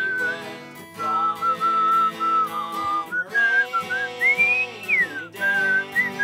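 A person whistling a melody over strummed acoustic guitar, holding notes and sliding between them, with one long rising note that falls away a little after four seconds in.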